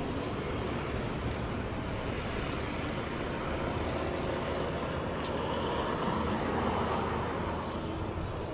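Road traffic, with a vehicle passing that grows louder and is loudest about seven seconds in.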